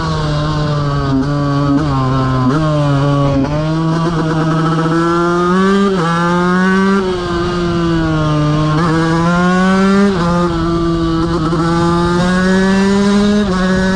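KTM 125 motorcycle's single-cylinder engine pulling hard on the move, its pitch climbing and then dropping sharply over and over as the rider shifts gears and comes on and off the throttle.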